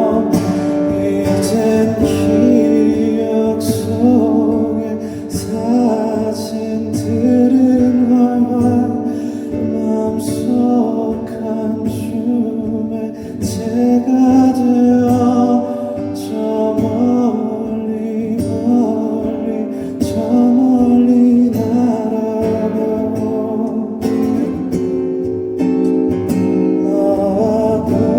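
Live performance of a pop ballad: band music led by guitar, with a singing voice.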